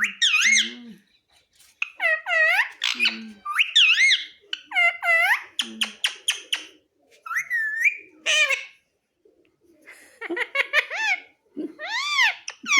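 Pet talking parrot calling and chattering in a high, laugh-like voice: a run of short rising-and-falling squawks, with a quick series of clicks about six seconds in and a brief pause around nine seconds.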